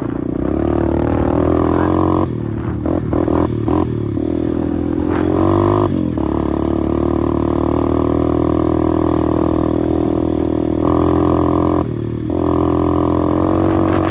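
125cc pit bike engine running under throttle while being ridden, holding a fairly steady pitch. It is broken by short dips about two to four seconds in, near six seconds and again about eleven to twelve seconds in, where the throttle is let off or a gear is changed.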